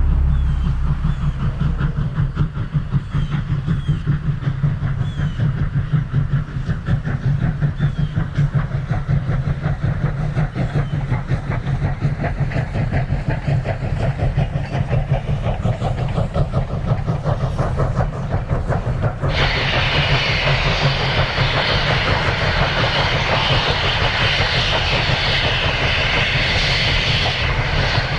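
Southern Railway No. 4501, a 2-8-2 Mikado steam locomotive, working a passenger train past: rapid exhaust beats and wheels clattering over rail joints over a heavy rumble. About two-thirds of the way through, a loud hiss comes in abruptly and carries on.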